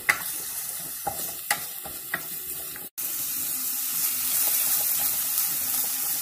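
Chopped onion sizzling as it is sautéed in a frying pan, with a few sharp clinks of a utensil against the pan in the first two seconds. After a brief cut-out about three seconds in, the sizzling is louder and steadier.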